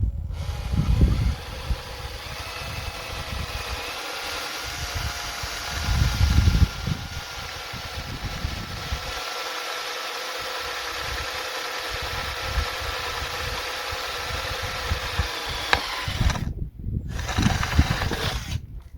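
Electric drill running at speed, boring a pilot hole through soft material into a sacrificial board beneath. Its whine wavers in pitch, stops about three-quarters of the way through, then runs briefly again near the end.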